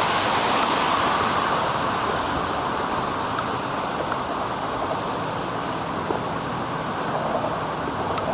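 Steady rushing noise of a bicycle ride in the rain, the hiss of the wet road and wind on the camera's microphone. It is a little louder for the first couple of seconds, then eases, with a few faint ticks.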